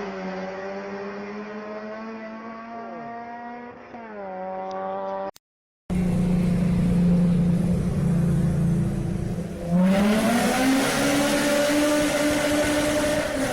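Honda K20 four-cylinder engine running at high revs, heard in two clips joined by a brief silent cut. In the first the revs hold, sag slightly, dip and pick up again. In the second they hold steady, then climb sharply and the sound turns suddenly louder and harsher just before the end.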